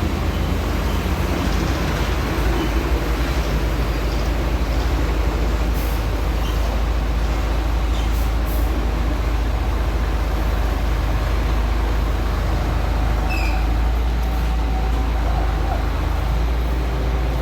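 Concrete mixer truck's diesel engine running steadily, a deep low rumble, with a few faint clicks.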